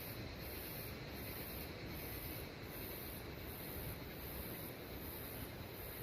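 A high insect call pulsing about one and a half times a second, over a steady hiss of rain.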